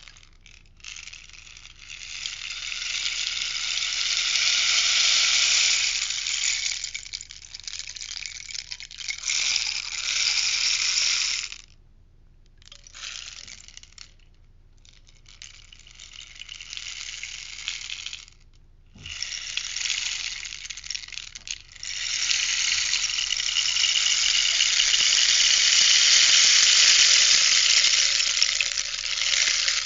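Rainstick tipped over and over, its fill trickling down through the tube in rattling, rain-like cascades. The cascades swell and fade over a few seconds each, with brief gaps between them, and the longest runs through most of the second half.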